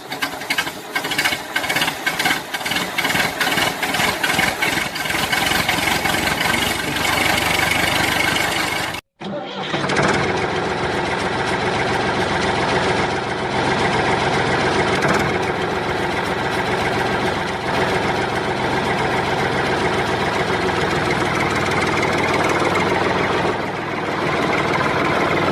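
A toy construction vehicle running, its motor and gears making an engine-like whirr. For about the first nine seconds it goes as fast, rattly clicking; after a brief cut it is a steady whirr.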